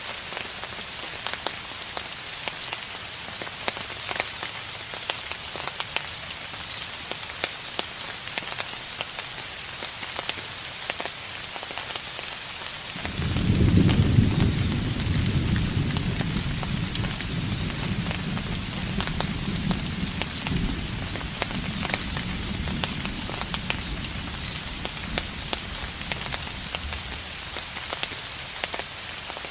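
Steady rain falling, with individual drops ticking. About halfway through, a low roll of distant thunder starts suddenly and rumbles on, fading away over about ten seconds.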